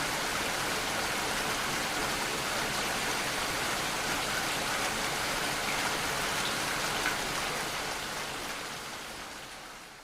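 Steady rainfall, an even hiss of many drops, fading out over the last couple of seconds.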